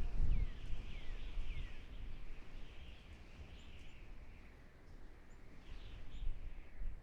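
Outdoor nature ambience: birds calling, with a few short falling chirps about three times in the first two seconds, over a steady high hiss of background calls and a low rumble.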